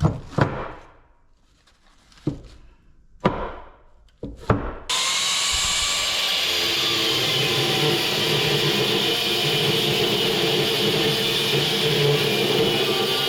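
A few sharp knocks of metal being struck on a steel scrap compressor, then about five seconds in a power tool cuts in suddenly and runs steadily at full speed. It is most likely an angle grinder cutting into the compressor's steel.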